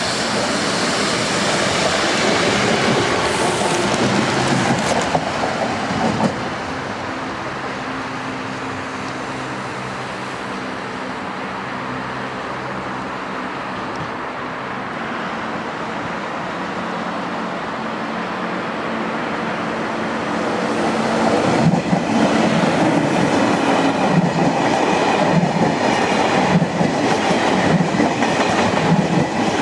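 Electric trains passing on a mainline: a double-deck TER regional train goes by close at the start, then after a steadier stretch of an approaching train's running noise, a TGV high-speed train passes close from about 22 seconds in, its wheels clattering over the rail joints in a regular beat about once a second.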